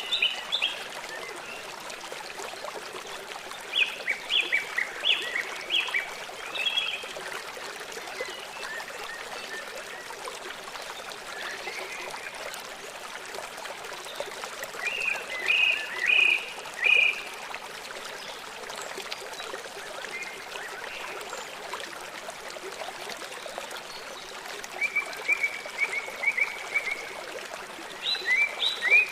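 Small songbirds singing in short bursts of quick, high chirps, with gaps of several seconds between phrases, over a steady background hiss.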